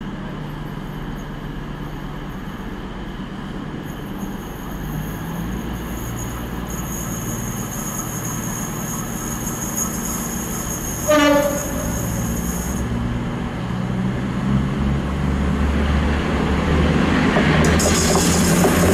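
Diesel trains at a station platform: a multiple unit's engines running steadily with a high-pitched whine, a short train horn blast about 11 seconds in, then a diesel locomotive growing louder as it approaches near the end.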